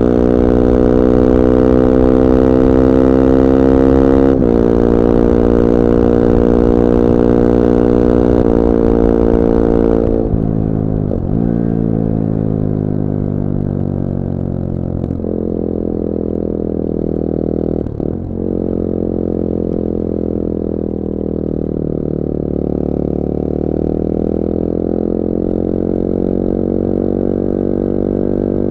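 2021 Bullit Hero 250's CF Moto 250cc four-stroke engine running under way, with brief dips in pitch at gear changes. About ten seconds in, the revs and the high hiss drop as the bike slows. Then the engine runs at lower revs with a few more quick dips, its pitch creeping up near the end.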